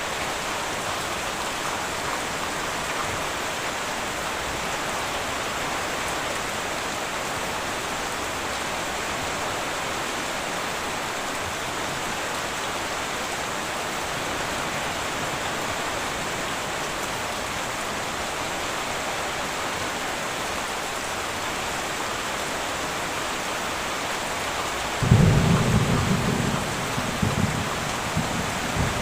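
Heavy rain falling steadily on a metal roof. About 25 seconds in, a low rumble of thunder breaks in and rolls on in uneven swells to the end.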